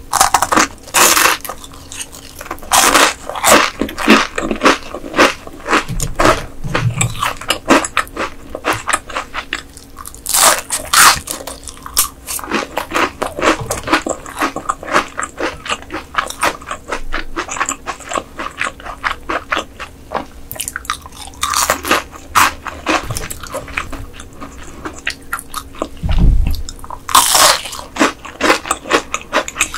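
Close-miked crunching and chewing of battered, deep-fried ice goby tempura: a dense crackle of crisp batter breaking between the teeth, with a louder crunchy bite every several seconds.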